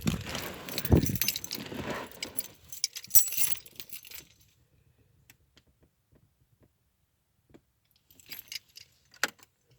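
Car keys jangling and clicking as they are handled, with a dull thump about a second in. Then quiet, with a few clicks near the end.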